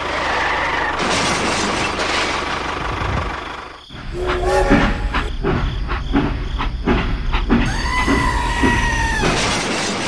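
Toy steam locomotive running with its steam-train sound effects: a noisy rush, then a regular chugging rhythm from about four seconds in, and a two-note train whistle held for about a second and a half near the end.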